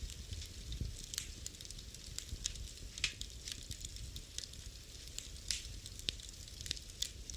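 Wood fire burning in a fireplace: irregular crackles and sharp pops over a low rumble of flame.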